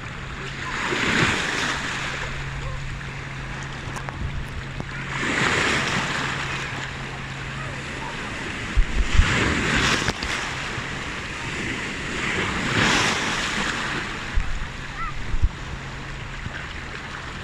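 Sea waves breaking and washing in, four surges about four seconds apart. Wind knocks on the microphone a few times in the second half, and a steady low hum stops about halfway through.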